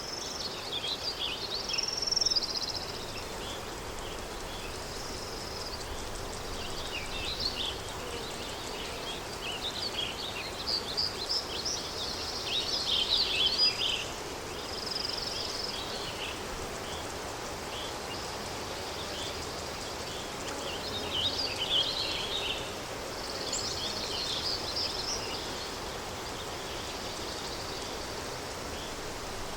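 Countryside daytime ambience: a steady bed of wind noise with small songbirds chirping and twittering in short clusters on and off, loudest around two seconds in and again near the middle.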